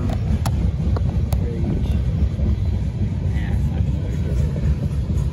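Freight cars of a slow-moving manifest train rolling past, a steady low rumble of wheels on rail with a couple of sharp clicks in the first second or so.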